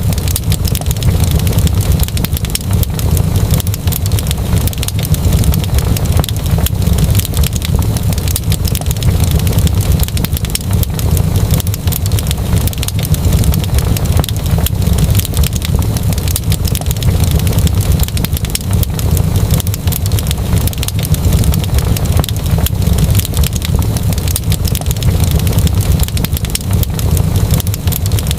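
Wood fire in a fireplace crackling, with dense, irregular small pops over a steady deep rumble.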